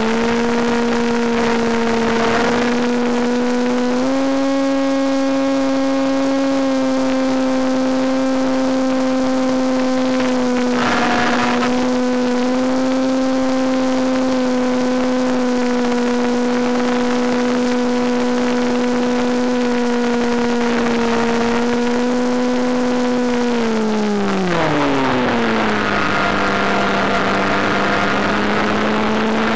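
Electric motor and propeller of a Penguin FPV model plane running at steady throttle with a constant whine over rushing air noise. About four-fifths of the way through the pitch slides down steeply as the throttle is eased back, then holds lower.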